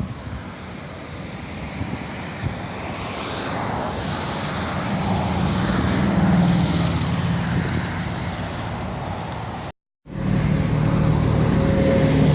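Motor vehicle running, with engine and road noise that swells and then eases. Just before the end it cuts to a second clip with a steadier engine hum.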